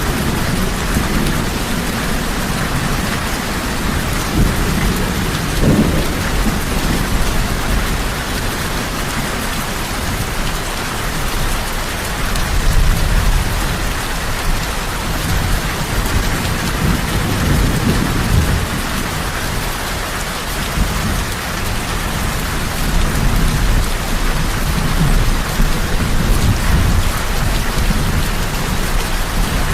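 Heavy rain falling steadily, with low rolling thunder rumbling underneath that swells and fades throughout.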